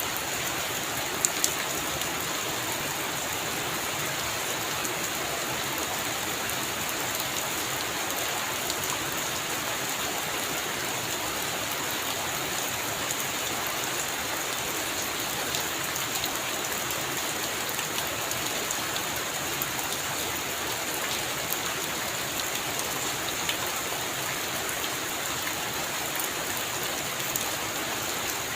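Heavy rain falling steadily on a roof, with a couple of sharp drop impacts about a second in.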